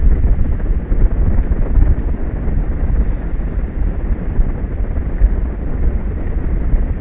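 Strong wind buffeting the microphone: a loud, low, gusty rumble that rises and falls.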